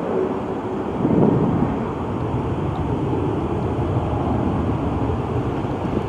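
Jet airliner engines heard as a steady rumble.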